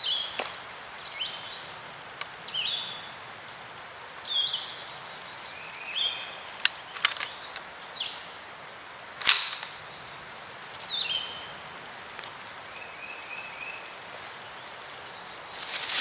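Small bird calling in short, high, falling chirps every second or two. Several sharp clicks or snaps come through, the loudest about nine seconds in. Loud rustling starts just before the end.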